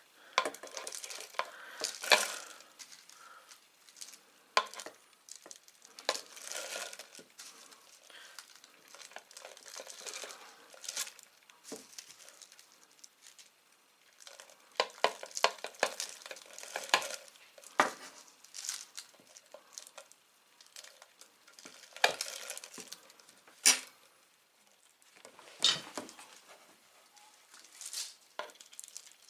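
A bar of soap being worked by hand for a homemade fire starter: irregular crinkling and scraping with light clinks and knocks, coming in short clusters.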